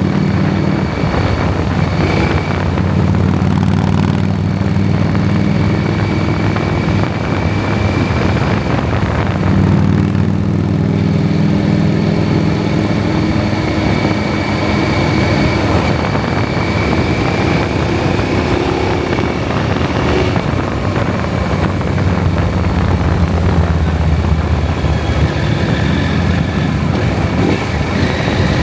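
KTM 790 Adventure's parallel-twin engine running on the move, its note rising and falling with the throttle and dipping briefly about ten seconds in and again near twenty seconds, over steady wind and road noise.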